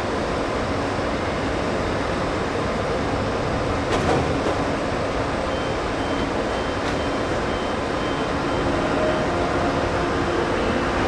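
Intercity train running steadily at a station platform, with one knock about four seconds in and a faint high tone pulsing on and off in the middle.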